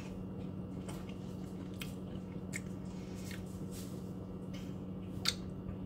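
A person chewing light, airy puffed snack crisps (Pringles Mingles), with a few short crunches about a second apart, the sharpest one about five seconds in, over a steady low hum.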